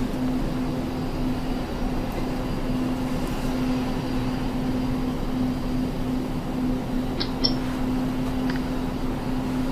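Steady engine drone with a constant low hum, unchanging throughout, and a few faint clicks about seven seconds in.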